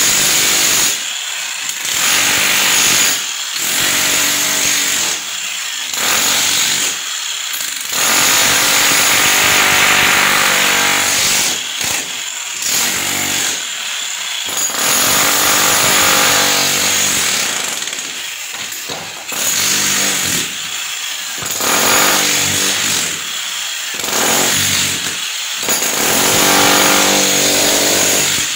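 An electric power tool running in repeated bursts of one to a few seconds, with short pauses between them, typical of demolition or cutting work on masonry.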